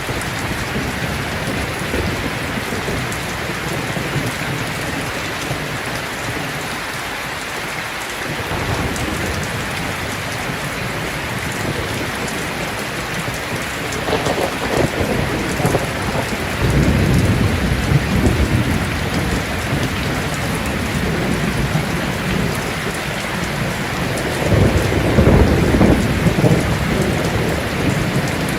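Heavy rain falling steadily in a thunderstorm, with rolls of thunder rumbling in about halfway through and again, louder, near the end.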